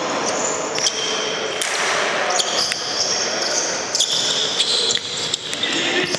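Indoor futsal play on a hall court: players' shoes squeaking on the floor in many short high squeals, with sharp knocks of the ball being kicked and bounced, echoing in the large hall.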